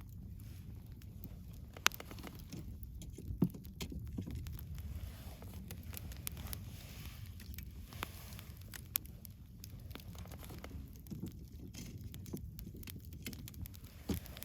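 Wood campfire burning: a steady low rumble with scattered sharp pops and crackles, two louder pops about two and three and a half seconds in.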